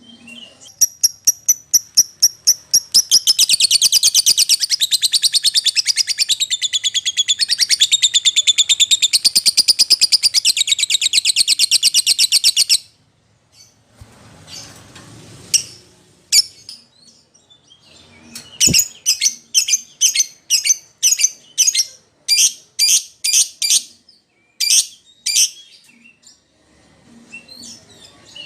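Lovebird calling: a quickening run of high chirps turns into a long, rapid, continuous chatter that cuts off after about twelve seconds, then after a pause a string of separate sharp chirps at about one or two a second.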